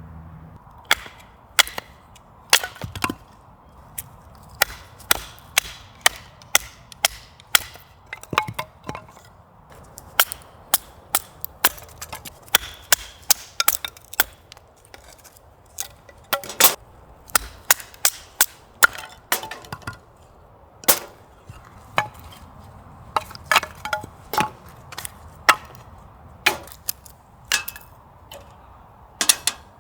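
Wood fire crackling, with sharp irregular pops and snaps, roughly one or two a second, over a faint low hiss.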